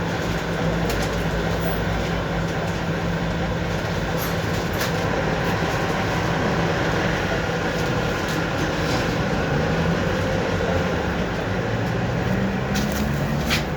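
Tram running along the track, heard from inside the car: a steady rumble with the hum of the traction motors and occasional clicks from the wheels. Near the end the motor hum shifts up in pitch.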